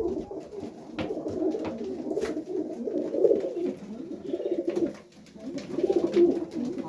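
Several domestic highflyer pigeons cooing, low overlapping coos that pulse on and off, with a few sharp clicks among them.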